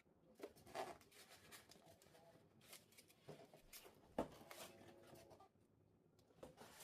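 Faint rustling and a few light clicks of things being handled, over quiet room tone.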